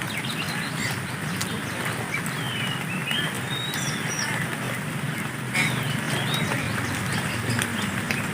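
Steady outdoor background hiss with a few short, high bird chirps, some sliding up or down in pitch, clustered around three to four seconds in and again around six seconds.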